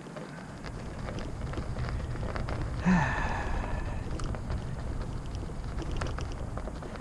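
Irregular crackling and crunching of icy snow and ice over a low rumble, with one brief louder squeak about three seconds in.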